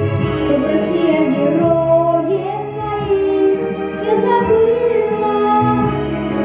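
Child singing a melody over a backing track with steady bass notes that change every second or two.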